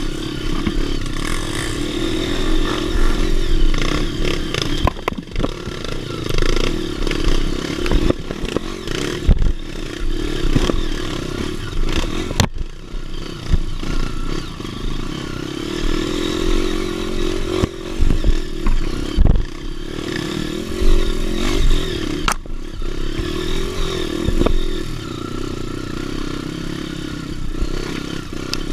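Dirt bike engine running on a trail, its pitch rising and falling as the throttle is opened and closed, with frequent sharp knocks and clatter as the bike goes over rough ground.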